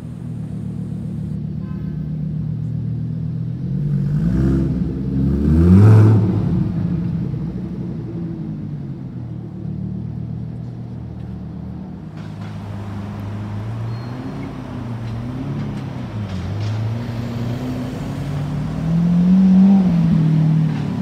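Lamborghini Huracán V10 revving as it pulls away, rising to its loudest about six seconds in, then fading as it drives off. After a cut, a Lamborghini Aventador SV Roadster's V12 runs with several light blips and a louder rev near the end.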